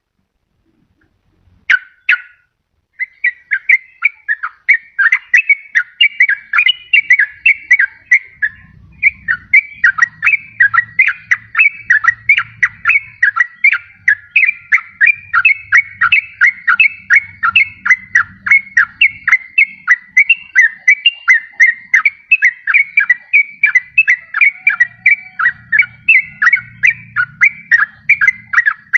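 Yellow-vented bulbul (trucukan) singing. A brief call comes about two seconds in, then from about three seconds in an unbroken, fast chatter of short whistled notes, about four a second.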